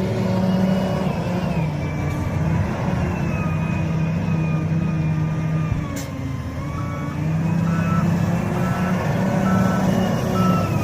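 Diesel engine of an SDLG wheel loader running steadily during truck loading. A reversing alarm beeps in an alternating two-tone pattern through the second half, and there is one sharp click around the middle.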